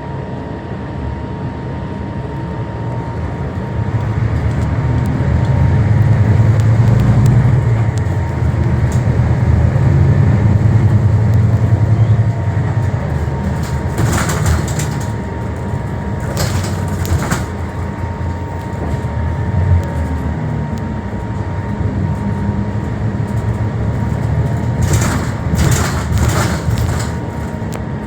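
Scania K320HB bus's diesel engine and drivetrain heard from inside the cabin, a low rumble that swells about four seconds in and eases off after about twelve seconds, with a faint steady whine. Short bursts of hiss come at about fourteen, seventeen and twenty-five seconds.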